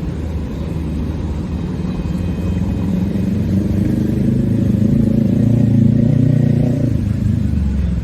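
A motor vehicle's engine running close by, a low steady hum that grows louder toward the middle and eases a little near the end.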